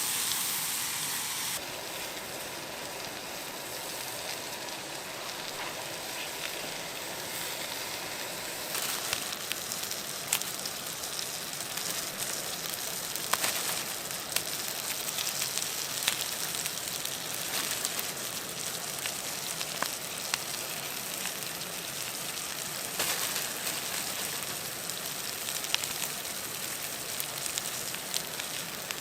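Wood campfire crackling, with a steady hiss and scattered sharp pops.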